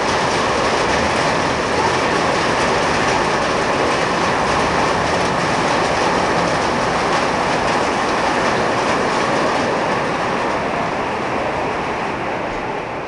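Hailstorm: hail and heavy rain falling hard in a dense, steady rush, easing a little near the end.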